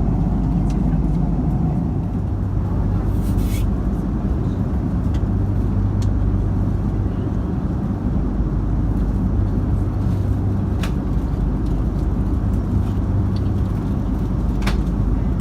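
Steady low rumble of an Airbus A330-200 airliner cabin: engine and airflow noise. A short hiss about three seconds in and a few sharp clicks.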